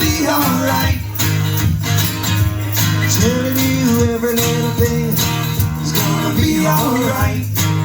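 Acoustic band playing a reggae tune: strummed acoustic guitar over a steady bass line, with a long held note coming in about three seconds in.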